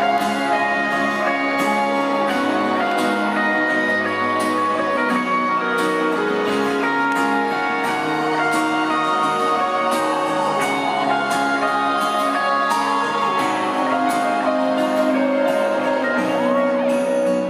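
Live rock band playing an instrumental passage: held guitar and keyboard chords with some bent notes over a steady drum beat.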